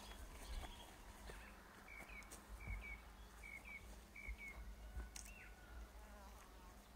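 A small bird calling faintly: a repeated two-note chirp, four pairs in a row over a couple of seconds and then one rising note, over a low outdoor rumble of wind.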